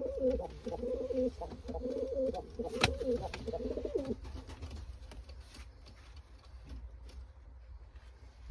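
Tumbler pigeon cooing in a continuous low, wavering coo for about the first four seconds, with a sharp click near the middle of it, then fainter scattered ticks.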